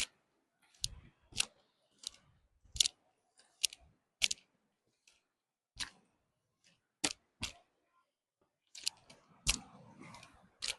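Footsteps on a rocky path: short sharp clicks and scuffs, irregular, about one a second.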